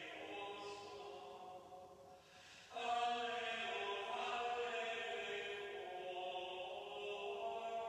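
Voices singing chant in slow, long-held notes, with a brief break about two and a half seconds in before the next note begins.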